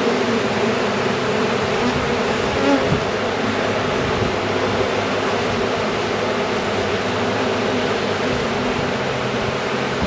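Honeybee colony in an open hive buzzing loudly and steadily. The bees are loud because their queen is out of the box.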